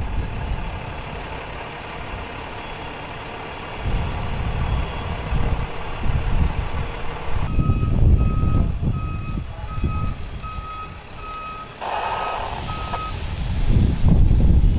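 A vehicle's reversing alarm beeping at a steady pitch, about one and a half beeps a second, starting about halfway through and stopping near the end, over a low rumble of engine and wind noise.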